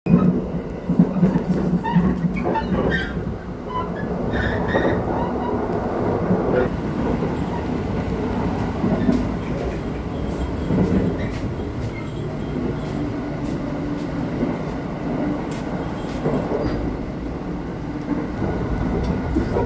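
Inside a moving electric limited express train: a steady low rumble of wheels on the rails and running gear, with occasional clicks and rattles.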